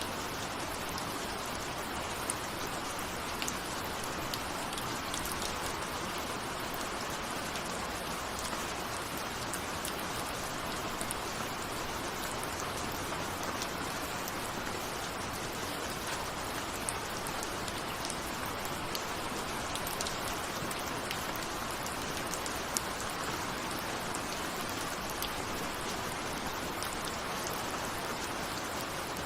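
Steady rain with individual raindrops ticking against a window, an even continuous hiss with scattered sharp drop clicks.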